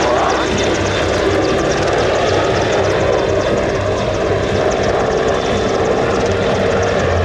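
CH-149 Cormorant (AW101) search and rescue helicopter hovering, its main rotor and three turboshaft engines running loud and steady with a pulsing low rotor beat.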